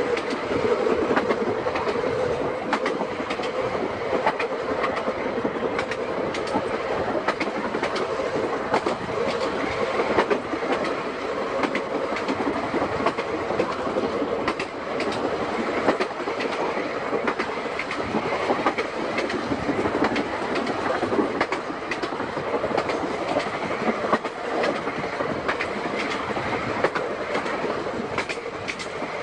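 Seaton Tramway narrow-gauge electric tram running along the track, its wheels clicking over the rail joints again and again. A whine rings over the running noise for the first few seconds, then fades.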